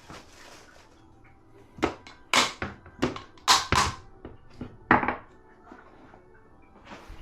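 Dishes clinking and clattering as they are handled at a dishwasher. It starts with a quick run of about eight sharp knocks with a ringing tail, starting about two seconds in and lasting some three seconds, then one more knock near the end.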